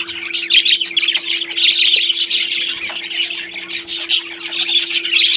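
Pet parrots chirping and squawking in a dense, continuous chatter.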